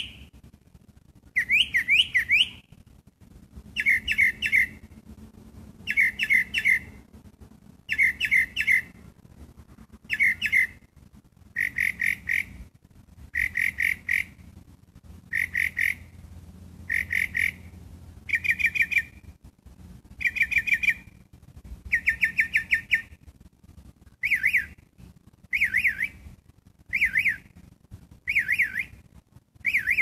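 A songbird singing in short phrases of rapid, high notes, one phrase about every second and a half. Each note pattern is repeated several times before the bird switches to a different one.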